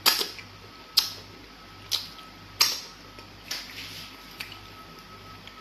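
Close-up mouth sounds of chewing a handful of fufu with egusi soup: sharp wet lip smacks about once a second, growing fainter after about three seconds.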